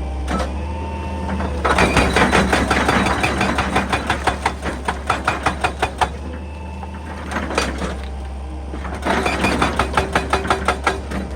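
Excavator diesel engine running steadily, with two spells of rapid, regular hammering, about five blows a second, from a hydraulic breaker striking rock.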